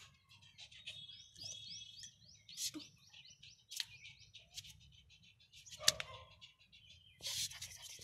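Small birds chirping, with a run of quick rising trills about a second in, alongside scattered sharp clicks. The loudest is a single click about six seconds in, and there is a short rush of hiss near the end.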